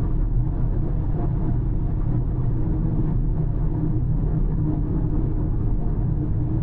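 Car driving at a steady speed: continuous low rumble of tyres on the road and engine, without change.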